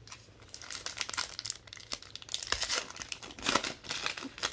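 Crinkling and tearing of a foil trading-card pack wrapper being handled and ripped open, as a series of irregular crackles.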